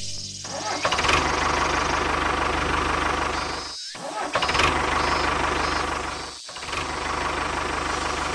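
A small motor starts up about a second in and runs with a rapid, even pulsing, cutting out briefly twice and starting again.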